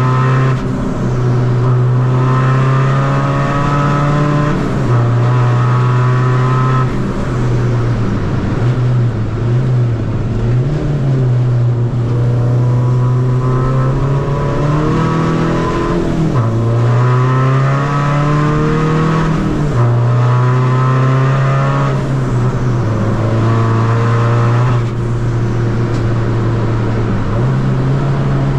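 Seat Ibiza FR's tuned 2.0-litre common-rail diesel engine pulling hard on track through a short-ratio gearbox. The engine note climbs and then drops at each gear change, about half a dozen times, with the revs wavering and falling about eight to eleven seconds in as the car slows for a corner.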